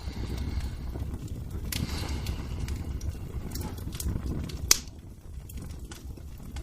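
Wood fire crackling: a steady low rumble with scattered sharp pops, the loudest pop a little past the middle.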